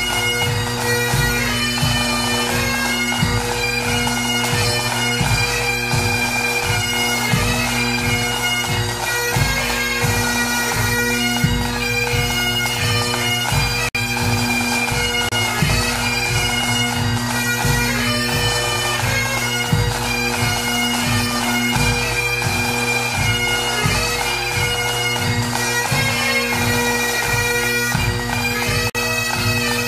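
Bagpipe music: a melody over steady drones, with a regular drum beat underneath.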